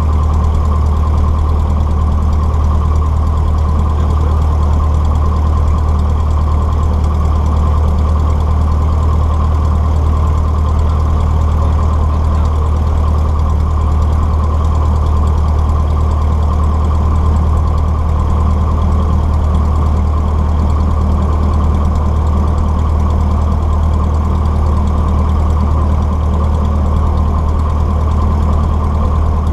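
Cessna 150's four-cylinder Continental O-200 piston engine and propeller running at a steady, unchanging speed, heard loud from inside the cockpit as a constant low drone.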